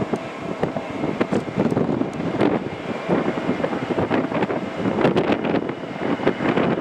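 Gusty wind buffeting the microphone, an uneven rumbling noise with irregular bumps.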